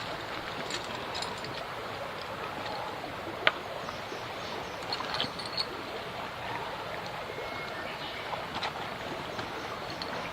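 Steady rush of a flowing stream. A single sharp click about three and a half seconds in, and a few lighter clicks around five seconds.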